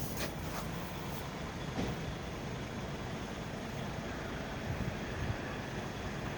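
Scania R tractor unit's diesel engine running steadily, with a few light clicks in the first two seconds.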